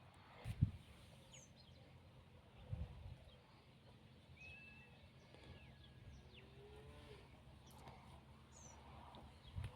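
Faint birdsong: scattered short chirps and a brief whistle over a quiet outdoor background, with two low thumps near the start.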